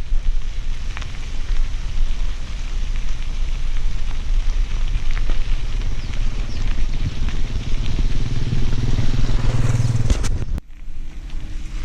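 Bicycle ride on a dirt road: wind buffeting the microphone over the crunch and crackle of tyres on gravel. A low hum swells in the second half, then the sound breaks off sharply and changes about ten seconds in.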